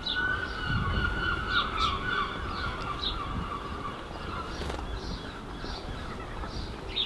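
Birds calling: a short high chirp repeated about twice a second, with a longer, lower call over the first few seconds.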